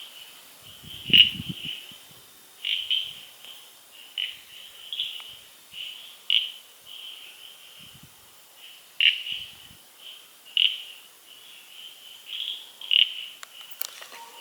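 A chorus of small calling animals: a steady high-pitched trill with louder chirps pulsing about once a second. There is a brief low rumble about a second in and a sharp click near the end.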